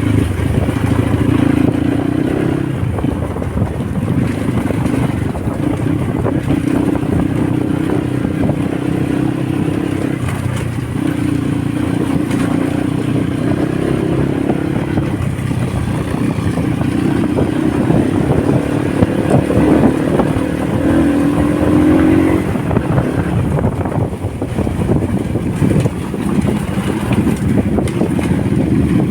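Motorcycle engine running while riding, its pitch climbing in stretches and dropping back several times, over a steady rush of wind and road noise.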